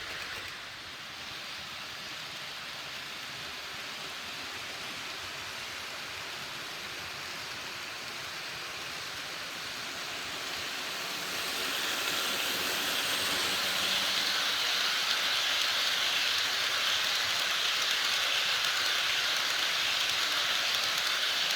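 HO-scale model freight train, a pair of EF64-1000 locomotives hauling tank wagons, running along the track with a steady rushing rattle of wheels and motors. It grows louder about eleven seconds in and holds there, as the train comes nearer.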